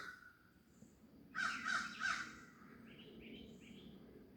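A bird calling three times in quick succession about one and a half seconds in, then a few faint, high, short chirps, over a faint low background hum.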